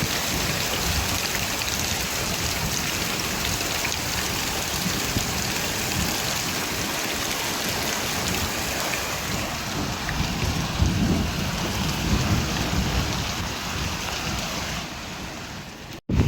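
Steady heavy rain with low rumbles of thunder, one swelling about two-thirds of the way through. Near the end the rain thins and then cuts off abruptly.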